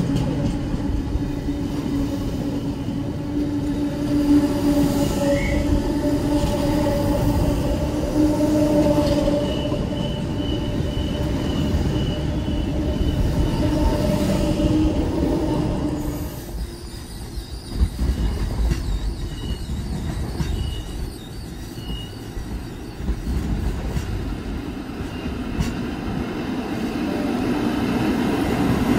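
Stainless-steel double-deck electric train running through the station without stopping, with a steady hum and a thin, high wheel squeal partway through. The hum fades a little over halfway in, and near the end another train rolls in, getting louder.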